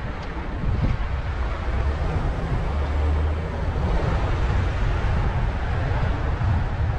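Car driving on the road: a steady low rumble of engine and tyres with wind buffeting the microphone.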